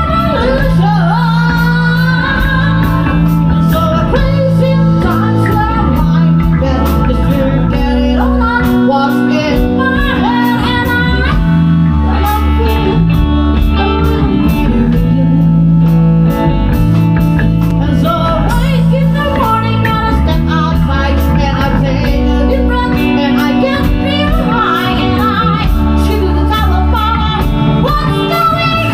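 A rock band playing live, with singing over electric guitar, bass and drums.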